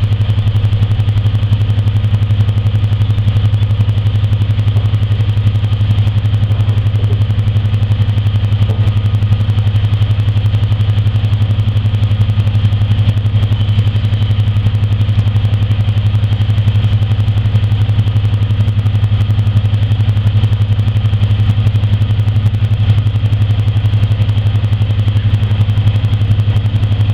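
Class 55 Deltic diesel locomotive's Napier Deltic two-stroke engines running steadily at a constant pitch, with a deep even hum and a fast, even pulse.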